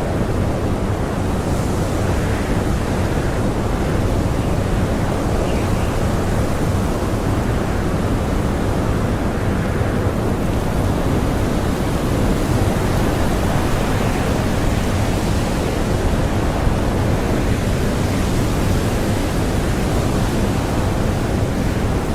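Strong blizzard wind blowing as a steady, deep rush, with gusts that swell and ease every few seconds.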